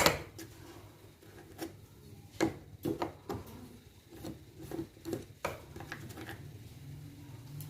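Handling noise on an overturned washing machine's body: a sharp click at the start, then scattered light knocks, taps and rubbing as it is handled.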